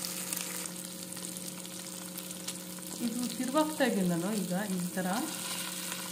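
Masala-coated boiled taro pieces shallow frying in oil on an iron tawa over a slow flame, a steady sizzle, with a low steady hum underneath. A voice is briefly heard in the background about halfway through.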